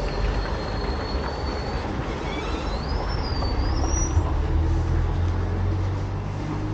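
A motor vehicle running close by with a steady low rumble, over which a thin high squeal holds for about two seconds, then comes back wavering and rising near the middle.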